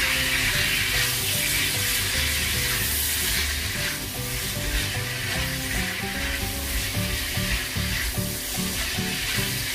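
Cabbage, carrot and sausage sizzling in a hot nonstick wok, stirred and tossed with a silicone spatula. There is a steady frying hiss with soft scrapes and knocks from the spatula against the pan.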